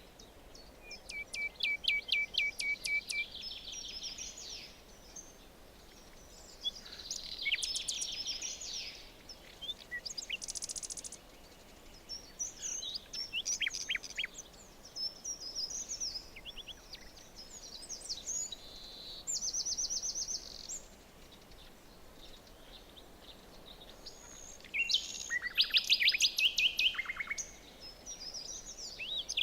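Several songbirds singing and calling in a forest, phrase after phrase with short pauses between, including rapid trills and runs of quick repeated notes.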